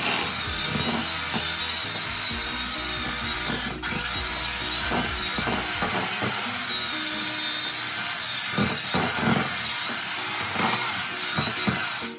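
Electric hand mixer running in stiff cookie dough, its motor whine wavering up and down as the beaters meet the load. It cuts off abruptly at the end.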